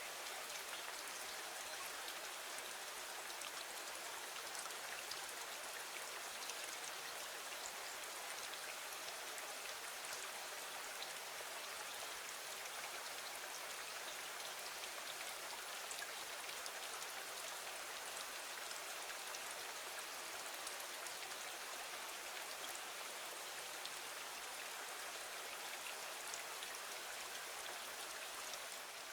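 Steady rain falling against a window: an even hiss with faint scattered drop ticks.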